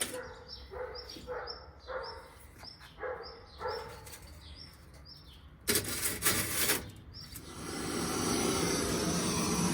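A bird calling in short repeated notes, about two a second, for the first few seconds. Then a loud rough clatter lasting about a second, followed by a steady hiss that builds up and holds.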